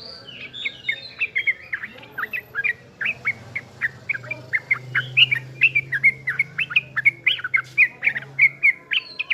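A young yellow-vented bulbul singing non-stop: a fast run of short, bright chirps and slurred whistled notes, several a second.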